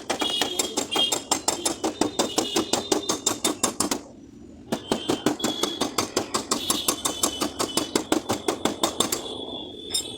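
Rapid hammer tapping on a car door's sheet-metal panel during dent repair, about five or six blows a second with a metallic ring. It pauses briefly about four seconds in, then resumes and trails off near the end.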